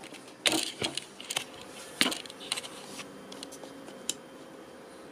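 Light clinks and knocks of small hard objects being handled, about half a dozen spread over the first four seconds. The loudest come about half a second and two seconds in.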